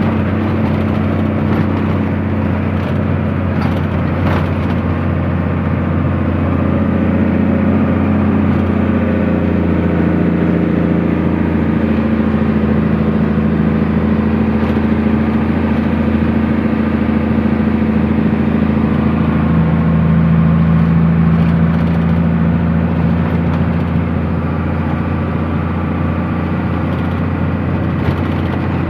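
Truck engine running steadily under way, heard from inside the cab, its pitch and level rising and easing slightly as the speed changes.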